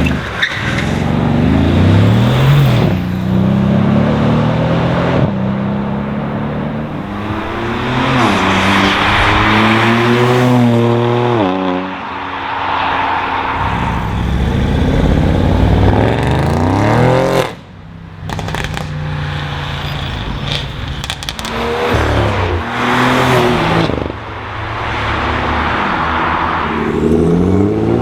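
A string of performance cars accelerating hard past, one after another. Each engine climbs in pitch through the revs and drops back at the gear changes. The sound cuts off abruptly about two-thirds of the way through before another car comes by.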